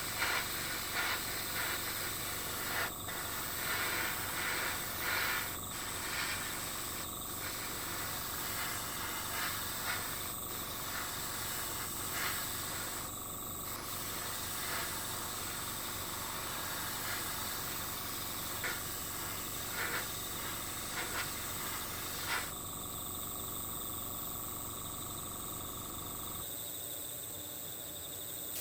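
Steady outdoor nature ambience: an even hiss with a high, unchanging tone over it. Scattered light clicks and taps come through, mostly in the first half.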